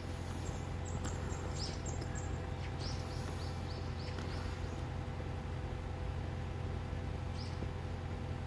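Small birds chirping in short, high, falling chirps, several close together in the first half and one more near the end, over a steady low outdoor rumble.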